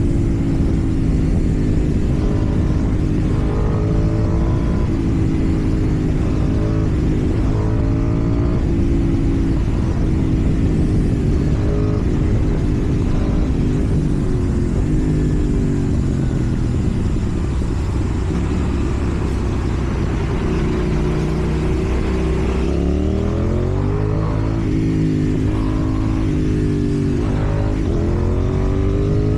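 KTM Duke 790 parallel-twin engine running through a slip-on exhaust while riding. The engine note rises and falls with the throttle, holds lower and steadier around the middle, and climbs in revs twice in the second half.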